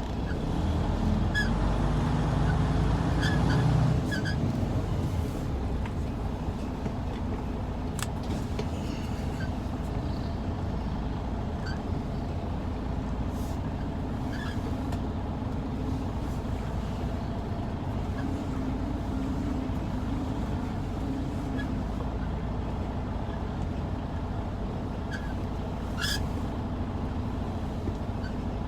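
Semi-truck's diesel engine running at low speed as the tractor-trailer backs up. The engine is louder for the first four seconds, then settles to a steady low rumble. A few brief sharp clicks or hisses sound over it, the strongest about 26 seconds in.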